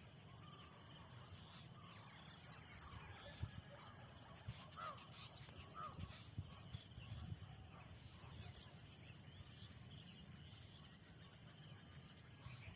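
Faint birds calling, a scatter of short calls that is busiest a few seconds in, over a low steady rumble.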